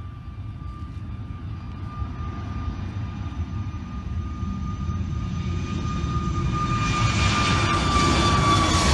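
An airplane approaching: its engine noise grows steadily louder, with a high whine that starts to drop in pitch near the end as it nears.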